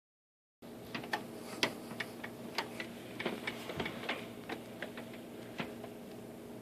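Large woodpecker pecking and chipping at wood: sharp, irregularly spaced knocks that stop about a second before the end.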